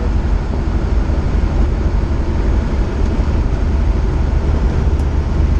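Semi-truck's diesel engine and road noise droning steadily in the cab, a low even rumble with no turbo whistle: the turbocharger has failed and the engine is making no boost.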